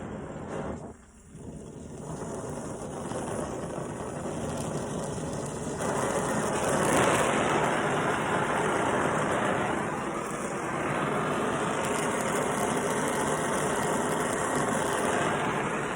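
Brazing torch flame burning with a steady rushing hiss as a refrigerator compressor's refrigerant-line joint is heated for brazing. It dips briefly about a second in and gets louder from about six seconds in.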